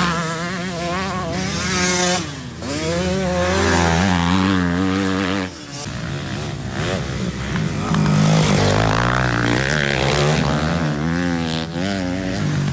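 Dirt bike engine revving up and down while riding, its pitch rising and falling with the throttle and briefly dropping off about two seconds in and again just past the halfway point.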